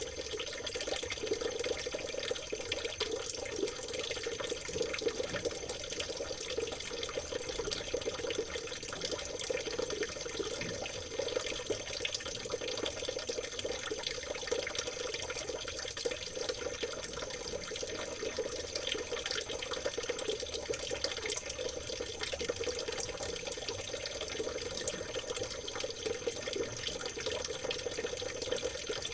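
Shallow stream water trickling and splashing steadily over stones, a continuous even babbling.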